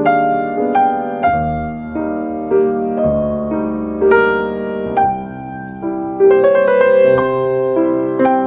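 Slow, gentle solo piano music, notes and chords struck about every half second and left to ring, with a quicker run of notes about six seconds in.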